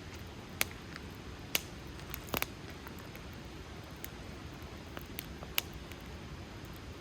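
Wood fire crackling: a steady low rustle of burning with sharp pops scattered through it, the strongest about half a second, a second and a half, twice close together near two and a half seconds, and near five and a half seconds in.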